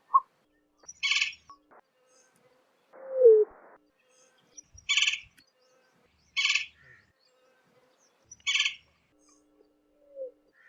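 Greater roadrunner calling: four short rattling notes a second or two apart, and one low falling note about three seconds in.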